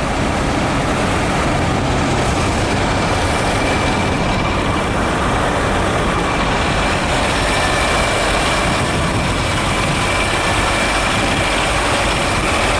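Heavy diesel truck engine running steadily, with a faint steady whine on top.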